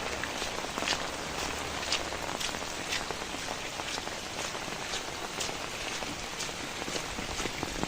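Steady rain falling, with the close patter of individual drops.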